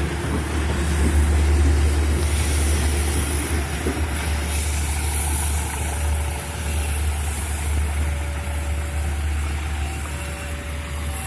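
A train running past with a steady low rumble, and faint thin whining tones that come and go.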